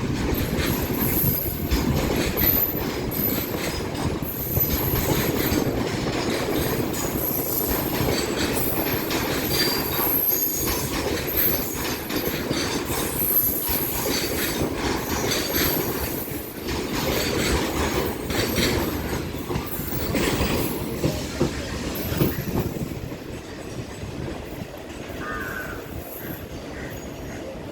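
Freight train of automobile-carrier wagons rolling past, with a steady rumble and clatter of wheels on the rails and a thin, high wheel squeal coming and going. It grows quieter over the last few seconds as the train moves off.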